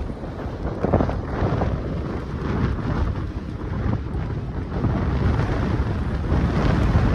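Gusty wind blowing across the microphone: a heavy, rumbling buffeting that swells with the gusts, a strong one about a second in.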